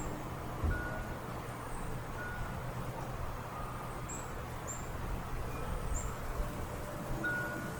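Small birds giving short, high chip calls four times around the middle, over a steady low rumble. Faint short tones, like distant wind chime notes, ring now and then.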